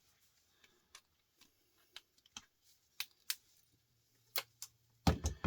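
Irregular light clicks and taps of small metal scrap parts and hand tools being handled on a workbench, spaced out with short gaps.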